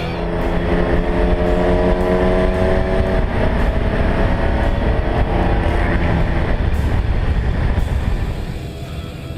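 Ferrari 375 MM's V12 engine accelerating, its pitch rising over the first three seconds, then running on as a dense rush that fades near the end.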